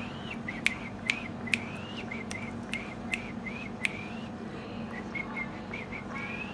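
A parrot making a string of short soft chirps and rising whistles, with sharp clicks now and then between them.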